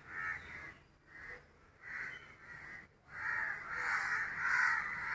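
A bird calling over and over in short calls, which grow louder from about three seconds in.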